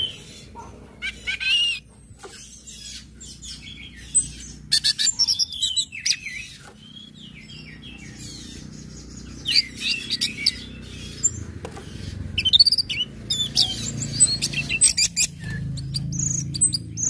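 Orange-headed thrush (anis merah) singing in separate bursts of rapid, repeated high chirps and varied whistled phrases, with short pauses between the bursts.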